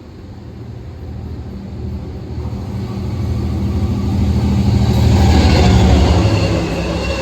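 Long Island Rail Road train approaching, its low rumble growing louder to a peak about six seconds in. Higher wheel-squeal tones set in near the end.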